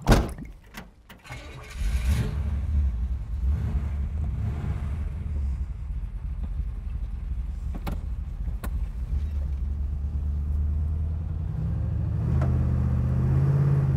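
A car door shuts with a sharp knock. About two seconds later the 1965 Chevrolet Impala's engine starts and runs steadily after its Sea Foam hot soak, and its note rises near the end as the car pulls away.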